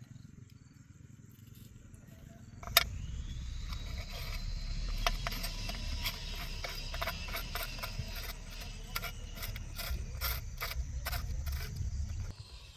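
A small motor-driven machine starts with a sharp click. Its whine rises and settles into a steady high tone over a low rumble with rapid rattling clicks, then it stops suddenly near the end.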